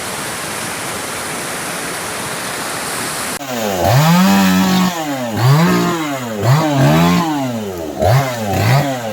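Steady rush of floodwater until about three and a half seconds in, then a chainsaw revving up and down over and over, its pitch rising and falling about once a second.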